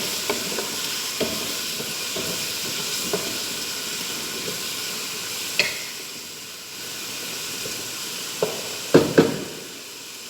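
Food sizzling steadily in a frying pan while it is stirred, with a few sharp clicks of the utensil against the pan, three of them close together near the end.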